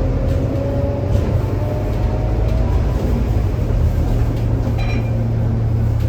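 Scania K230UB single-deck city bus heard from on board: its five-cylinder diesel engine pulling steadily with a whine that rises slowly in pitch over the first few seconds, then a steady low drone from about four seconds in. A short high electronic beep about five seconds in.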